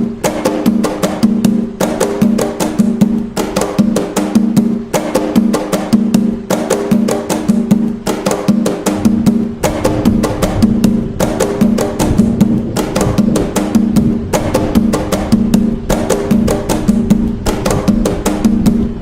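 Atabaque hand drums playing the Umbanda toque nagô rhythm: a steady, fast, repeating pattern of drum strikes.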